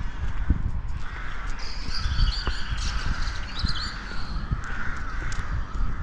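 Birds calling outdoors, with a run of short high chirping calls between about one and a half and four seconds in, over a steady low rumble with small knocks.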